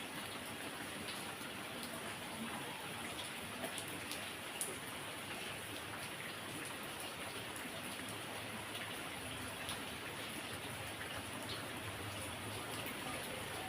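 Steady heavy rain falling, a dense even hiss with scattered sharp drop ticks, a couple of them louder about four seconds in.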